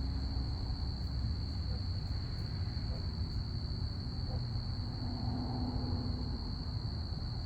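Crickets chirping in a steady, unbroken high-pitched chorus over a low, steady rumble.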